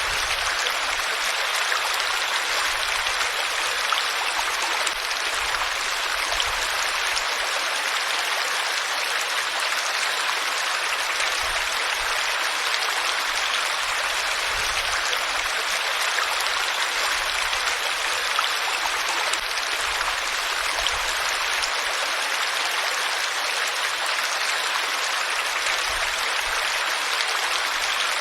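Flowing water running steadily, an even rushing sound.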